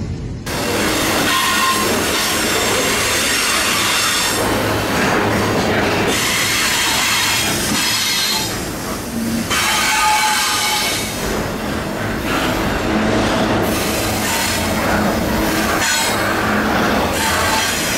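Container freight train rolling past at close range: a loud, steady rush of steel wheels on rail, with brief high wheel squeals coming and going.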